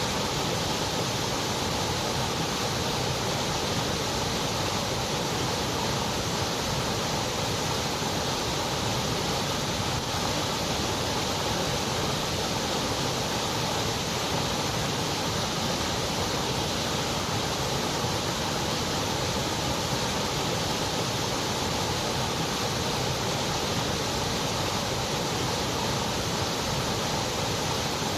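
Continuous white noise: a steady, even hiss that does not change, a little weaker in the highest treble.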